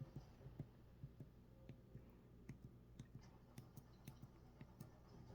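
Near silence: room tone with faint, irregular small clicks scattered throughout.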